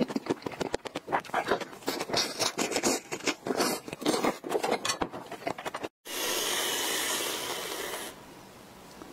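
Close-up chewing of a whipped-cream-topped strawberry: wet mouth clicks and smacks in quick succession. About six seconds in they stop abruptly, and an aerosol whipped-cream can sprays with a steady hiss for about two seconds, then goes softer near the end.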